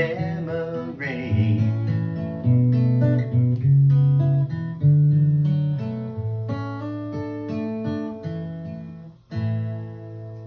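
Closing bars of a song on acoustic guitar, with a held sung note fading out in about the first second and a half. Picked notes carry on, then a final chord is struck about nine seconds in and rings out.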